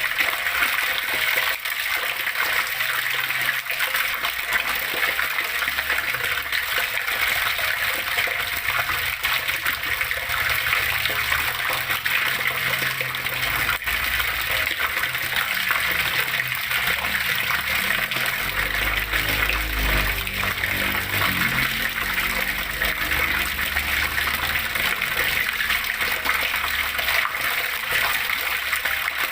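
Flowing water rushing and splashing steadily, a continuous even noise. A low rumble swells briefly about two-thirds of the way through.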